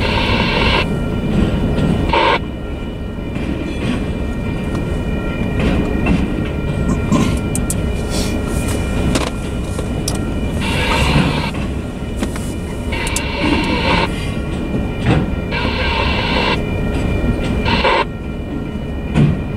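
Flatcars of a Union Pacific maintenance-of-way train rolling steadily past, with wheels rumbling and clattering on the rails. A grade-crossing bell rings steadily throughout. Louder rushes of higher-pitched noise come and go every couple of seconds.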